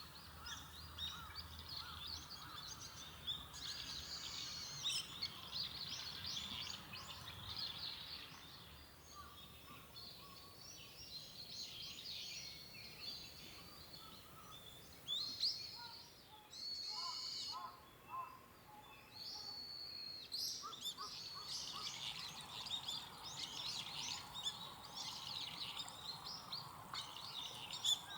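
Many small birds chirping and calling at once, with a steady stream of short, high, overlapping chirps.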